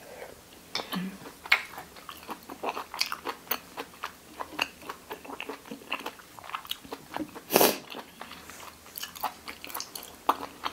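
Close-up wet chewing and crunching of pig's ear, a run of many small crackles as the cartilage is bitten through. About seven and a half seconds in there is one louder breathy hiss.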